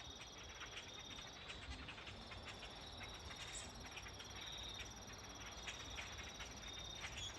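Faint evening chorus of crickets trilling steadily in several high, unbroken bands, with many short bird chirps scattered through it from a flock gathering in a tree.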